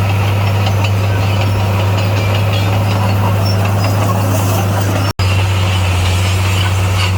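Heavy construction machinery's diesel engine running steadily, with a constant low drone. The sound cuts out for an instant about five seconds in.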